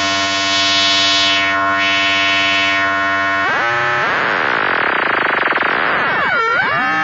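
Sound Lab Plus analog synthesizer sounding a sustained buzzy tone, oscillator 1 modulated by oscillator 2. Its timbre sweeps, then about three and a half seconds in it turns noisier, and near the end the pitch swoops down and back up several times.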